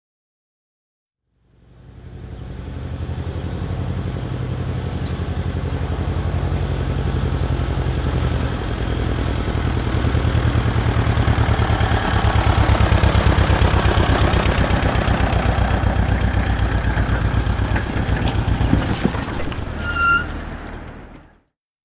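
Truck diesel engine running with a low rumbling pulse. It fades in, grows louder towards the middle, then eases off and cuts off suddenly near the end. A short high-pitched beep sounds just before it stops.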